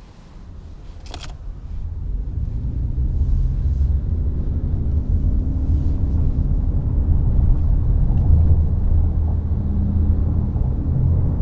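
Toyota C-HR 1.8 hybrid driving: a low rumble of engine and road noise builds over the first couple of seconds as the car gathers speed, then holds steady. A single sharp click comes about a second in.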